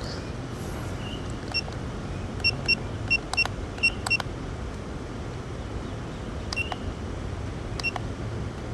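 Short, high electronic beeps from the FPV drone gear, about a dozen, quick and irregular in the middle of the stretch with one more near the end. Several sharp clicks are mixed in, as from switches being flicked. A steady low background hum runs underneath.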